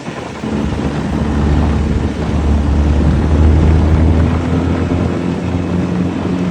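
A small boat's motor running steadily at cruising speed, a loud, even low hum.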